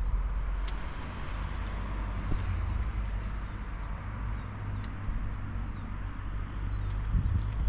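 A vehicle engine running with a steady low rumble, while small birds chirp over it in short, high, falling notes, about two a second.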